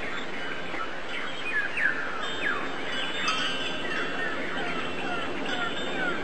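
A chorus of small birds chirping, many short falling chirps overlapping one another over a steady background hiss, with a few held tones a little past the middle.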